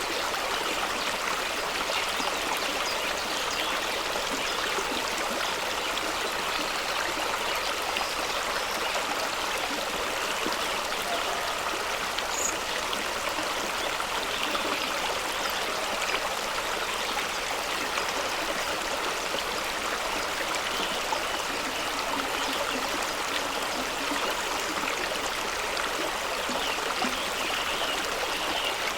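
Fast-running stream of water spilling over rocks, a steady rush and splash with no letup.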